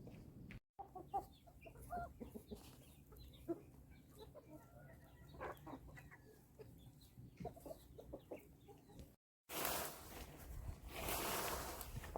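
Chickens clucking faintly in short scattered calls. About nine seconds in, a louder rushing noise takes over.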